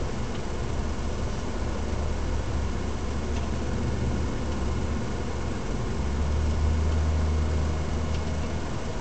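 BMW 135i's N54 twin-turbo straight-six running under way, a steady low engine drone mixed with road noise, swelling a little about six seconds in.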